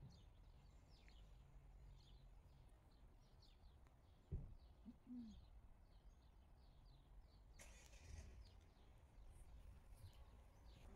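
Faint chirping of small birds, many short calls in quick succession, over a low steady background rumble. A single sharp knock sounds about four seconds in.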